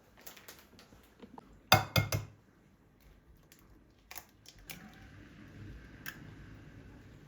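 Clinks and knocks of kitchen dishes and utensils being handled, loudest in a quick cluster about two seconds in, with a faint steady hum joining in the second half.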